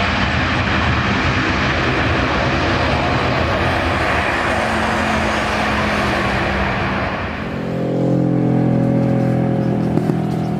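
Jet airliner's engine roar passing close, loud and even, which fades out about seven seconds in. A steady low engine hum with a tone then carries on.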